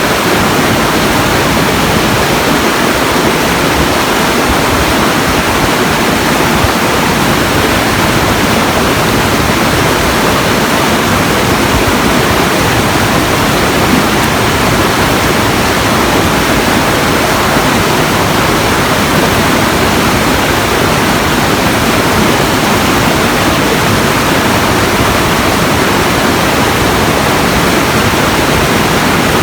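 A loud, steady rushing noise spread evenly from low to high, with no rhythm, tones or individual events, unchanging throughout.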